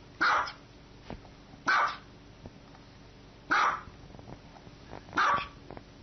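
Small white dog barking: four short, sharp single barks, spaced about one and a half to two seconds apart. These are demand barks, the dog asking to be given something.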